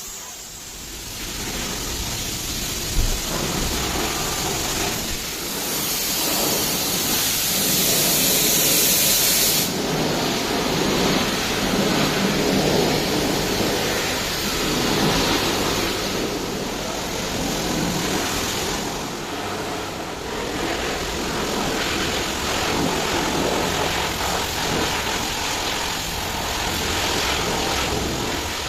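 Car being washed: hiss of pressure-washer spray and water spattering on the car. A stronger, sharper burst of spray comes about six seconds in and stops about four seconds later.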